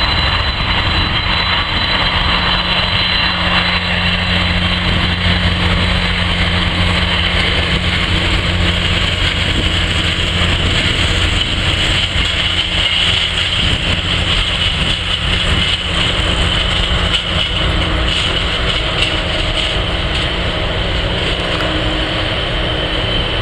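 Jet airliner engines running with a steady deep rumble and hiss, and a high whine that fades out over the first few seconds.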